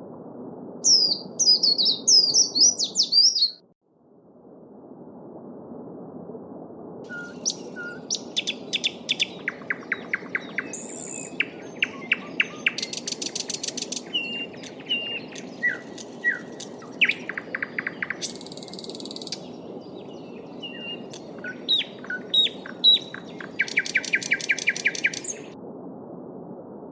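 Small songbirds singing over the steady babble of a stream: a fast, high warble in the first few seconds, then varied chirps and rapid trills. The water sound drops out briefly about four seconds in and fades back.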